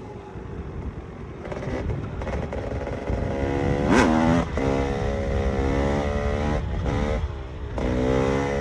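KTM EXC 300 single-cylinder two-stroke engine under way: it runs light and quiet at first, then builds on the throttle. About four seconds in there is a sharp, quick rev that rises and falls, and near the end it eases off briefly before pulling again.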